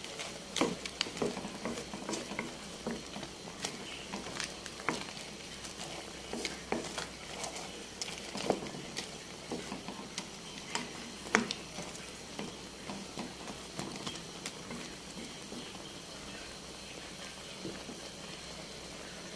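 Freshwater crayfish sizzling and bubbling in a wok, with a wooden spatula stirring them in clicks and knocks against the shells and pan over the first dozen seconds. After that the frying carries on steadily, with only a few knocks.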